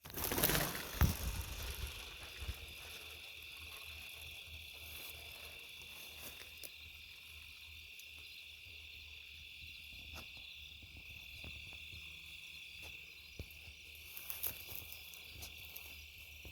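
Steady high-pitched chorus of insects chirping in a field, with low wind rumble on the microphone and a few scattered clicks; the wind is louder for the first couple of seconds.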